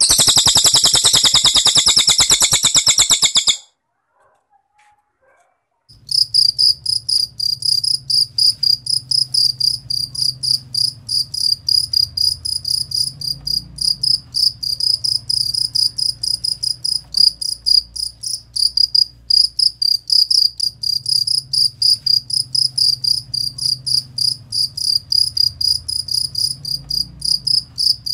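A cililin bird's dense, very rapid rattling trill lasting about three and a half seconds. After a short pause, a cricket starts chirping steadily in quick, even high-pitched pulses over a low hum.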